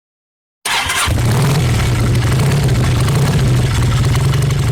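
Motorcycle engine starting with a short burst, then running steadily with a low rumble.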